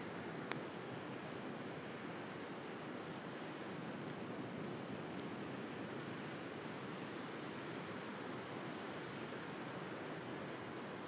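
Steady wash of sea surf with a wood bonfire crackling now and then, one sharper pop about half a second in.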